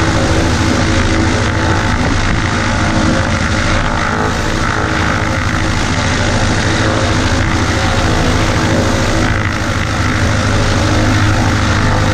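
Light aircraft's piston engine and propeller running steadily, a constant loud drone with engine and wind noise, as heard from inside a Cessna 140A.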